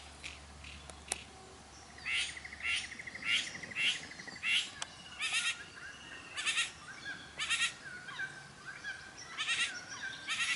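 Male satin bowerbird's courtship calls: a short buzzy trill about two seconds in, then a run of harsh, rasping notes, roughly one or two a second.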